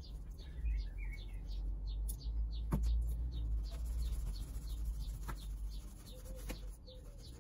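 Small songbird chirping over and over, a run of quick falling high notes, with a few light clicks about three, five and six and a half seconds in.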